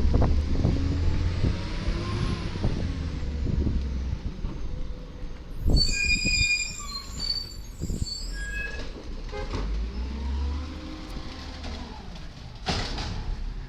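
A 1999 Volvo Amrep Octo side-loader garbage truck's diesel engine rises and falls in pitch twice while running. Around the middle there are two sharp bangs and a burst of high metallic squeals, typical of the automated arm lifting and dumping a cart.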